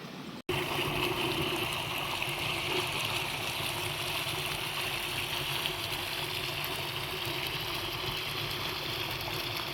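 Steady rushing noise of flowing water, like a stream, starting abruptly about half a second in after a brief dropout.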